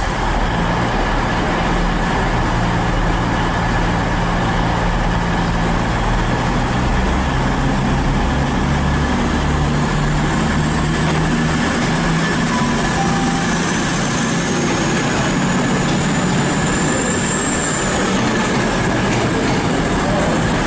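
Class 221 Super Voyager diesel-electric unit pulling out, its underfloor diesel engines running under load, with their pitch stepping up as it gathers speed. A high wheel squeal rises in pitch through the middle and fades out near the end.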